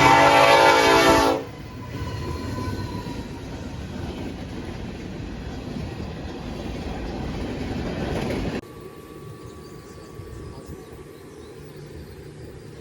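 Train horn sounding loud and steady, ending a little over a second in. It gives way to the noise of the train running, which cuts off abruptly about eight and a half seconds in to a much quieter background.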